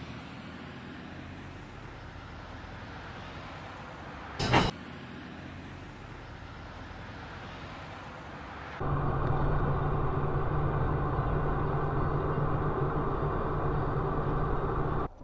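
Vehicle running noise as picked up by dashcams: a steady hiss of road and engine noise broken by one short, loud knock about four and a half seconds in. Just before nine seconds it switches abruptly to louder engine noise with a steady low hum, which stops suddenly near the end.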